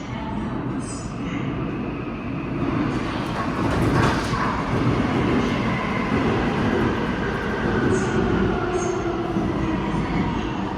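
Seoul Subway Line 5 train running through the station, its rumble growing louder about three seconds in, with high whining tones that slowly slide in pitch over the wheel and track noise.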